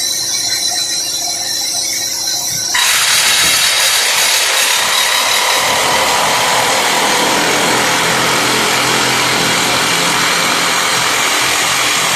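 Simba S7D long-hole drill rig: the hydraulics run with a high hiss, then about three seconds in the hydraulic rock drill comes on with a sudden, loud, steady noise, drilling with a 64 mm bit on T-38 rods.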